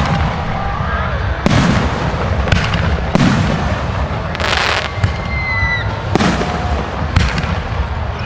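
Fireworks display: aerial shells bursting with sharp bangs about once a second, over a continuous low rumble, with a denser crackling burst about four and a half seconds in.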